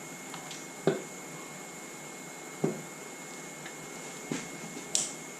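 Four dull knocks, about one every second and a half, of a cast cylinder head being rocked and tapped down onto its block as it hangs up on the locating dowels; the last knock has a sharper click.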